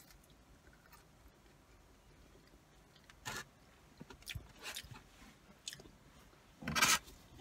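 A person chewing a mouthful of cheese-covered curly fries, with soft, wet eating sounds coming in short bursts. A louder brief noise comes near the end.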